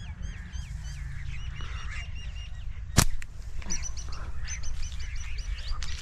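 Birds calling in a fast, continuous series of short high chirps that curl in pitch, with one sharp click about halfway through, over a steady low rumble.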